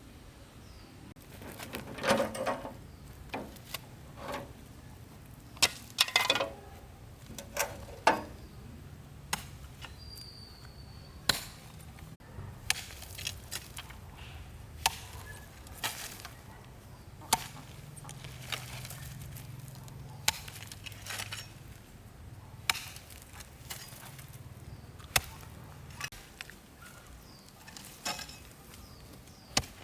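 A series of sharp, irregular knocks and cracks: single strikes and short clusters, a second or more apart, the loudest few in the first third.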